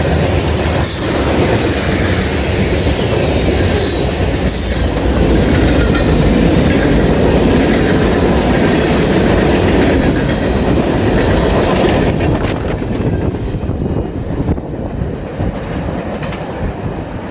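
Norfolk Southern freight train rolling past, its wheels clacking over the rail joints with brief high wheel squeals in the first few seconds. The sound gets quieter and thinner over the last few seconds as the train moves away.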